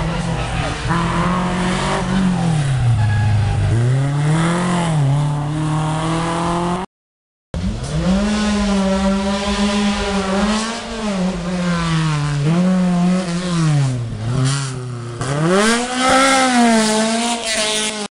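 Rally car engine revving hard, its pitch repeatedly rising and falling as it accelerates and lifts off, with a short break about seven seconds in.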